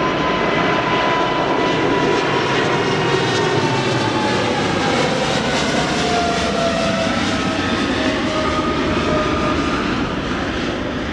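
Jet airliner passing close by: loud engine noise with a whine that falls steadily in pitch as the aircraft goes past, swelling in at the start and easing off near the end.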